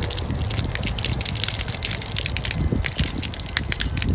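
Water gushing out of an upturned plastic water bottle as it is emptied, with many small clicks scattered through the pour.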